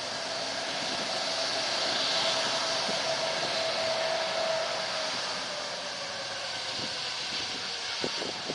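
Jet airliner engine noise: a steady rush with a thin whine that swells about two seconds in, then fades as the whine drops slightly in pitch.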